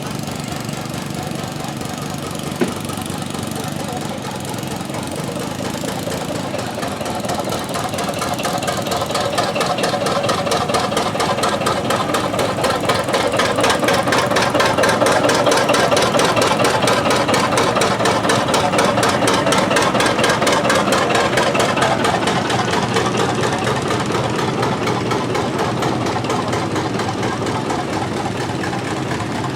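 Garden tractor engine running hard with a fast, even exhaust beat, growing louder to a peak about halfway through and then easing off. There is a sharp click a few seconds in.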